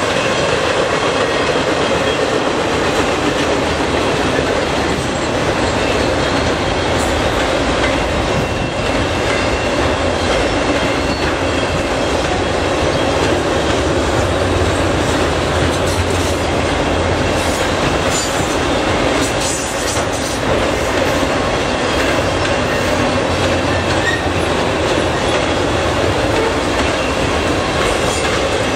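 Freight train's autorack cars rolling past: a loud, steady rumble and rattle of steel wheels on rail.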